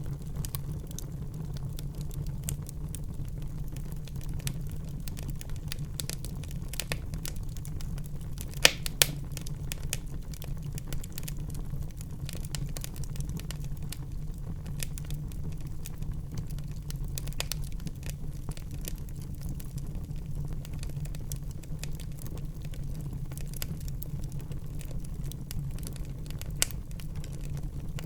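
Wood fire burning in a fireplace: a steady low rumble of the flames with frequent small crackles and pops, two sharp pops standing out about nine seconds in and one more near the end.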